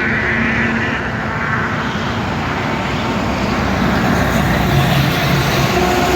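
Highway traffic: vehicles passing close by, a steady roar of engines and tyre noise on the road.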